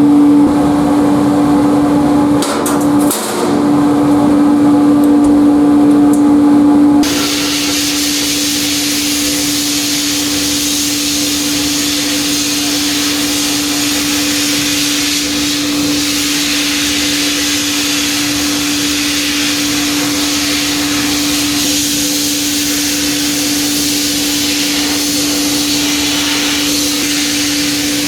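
Sandblasting equipment: a steady electric hum, then about seven seconds in a steady hiss of blasting air and abrasive starts and continues over the hum as the rusty steel wrench is sandblasted.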